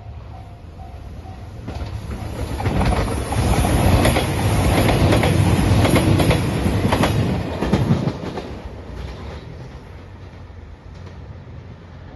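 JR Shikoku 2700 series diesel limited express train passing close by. Its rumble swells over about two seconds, holds for about five seconds with rapid wheel clicks over the rail joints, then fades away. A level-crossing bell's repeating ding is heard briefly at the start.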